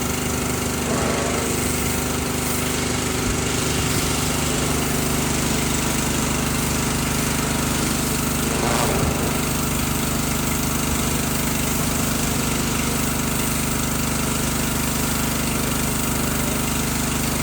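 Pressure washer's small engine and pump running steadily under a constant spray hiss.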